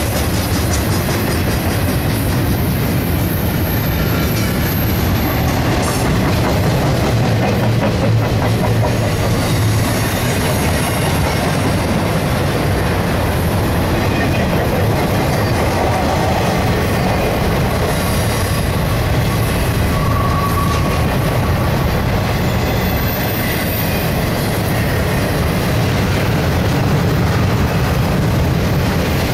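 Intermodal freight train's double-stack container cars and trailer cars rolling steadily past at speed: a continuous rumble of steel wheels on the rails.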